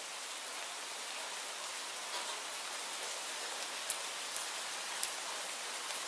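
Steady rain falling, an even hiss, with three short sharp ticks in the second half.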